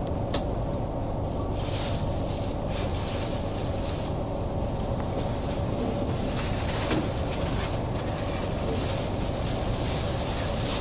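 Steady low rumble and hum inside a passenger train carriage, with a constant mid-pitched drone and a few faint clicks.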